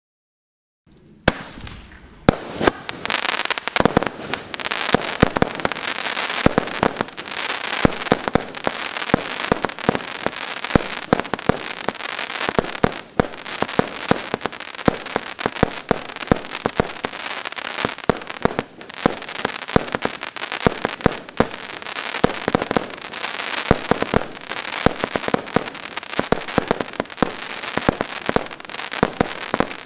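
Blue Night MC149 fireworks battery (cake) firing. Sharp reports come in quick succession over a steady crackle, starting about a second in.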